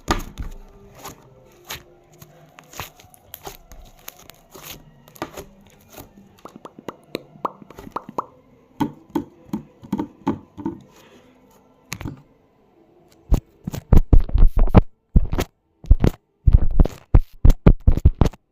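Close-miked ASMR trigger sounds: a run of soft clicks and taps over faint background music, then loud, rapid thumps and crackles for the last few seconds.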